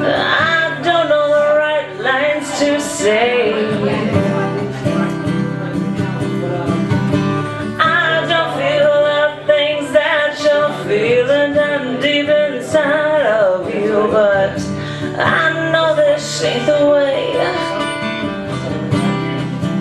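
Live guitar accompaniment with a voice singing a melody over it.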